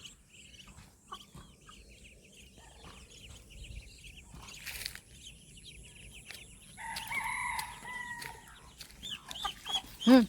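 Duckling peeping: many rapid short high chirps, then a longer call about seven seconds in and one louder, lower call just before the end.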